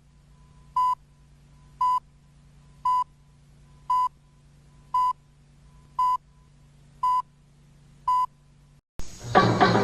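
An electronic beep of one pitch sounds briefly about once a second, eight times, over a steady low hum. Near the end it cuts off suddenly and music starts.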